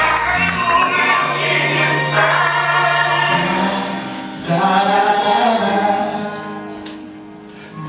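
A choir singing a gospel worship song with musical accompaniment. One sung phrase ends about four seconds in, and a new one swells up, then fades near the end.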